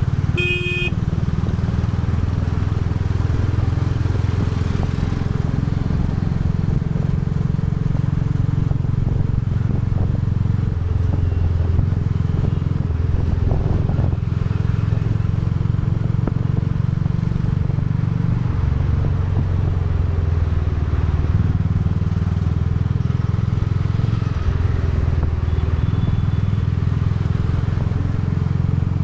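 Royal Enfield Bullet 350's single-cylinder engine and exhaust running steadily on the move, its note shifting now and then. A short horn beep sounds about half a second in.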